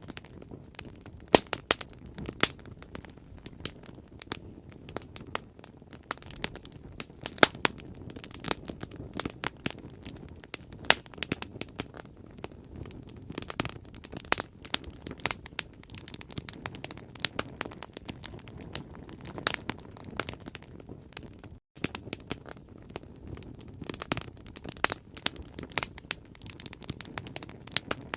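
Wood bonfire crackling, with frequent irregular sharp pops over a low steady rush of flame. The sound drops out for an instant about three-quarters of the way through.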